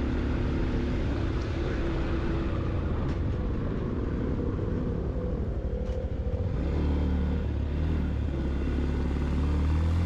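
Motorcycle engine running under way on a ride uphill, a steady low drone that grows louder and fuller about six and a half seconds in.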